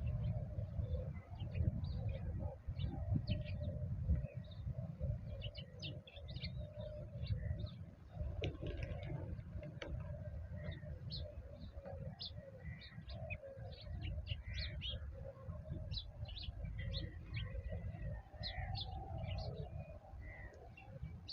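Small birds chirping in quick short notes, with doves cooing lower down, over a steady low rumble.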